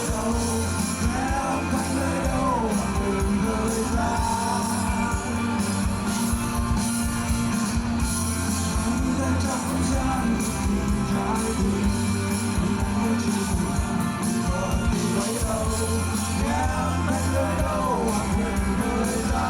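Rock band playing live at full volume, with electric guitars over a steady beat.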